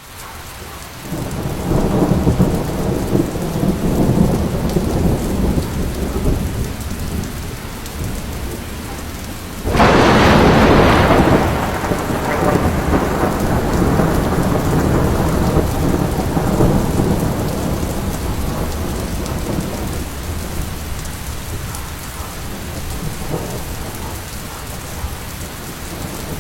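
Heavy rain falling with low rolling thunder. About ten seconds in a sudden loud thunderclap breaks and rumbles away slowly over several seconds.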